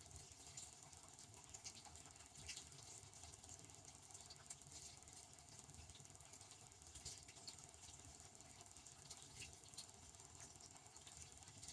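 Devanti benchtop dishwasher running a wash cycle, heard faintly: a low hum with an irregular patter of small ticks, typical of water spray hitting the inside of the tub.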